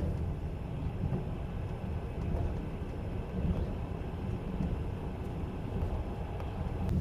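Passenger train running at speed, heard from inside the carriage: a steady low rumble with faint scattered clicks.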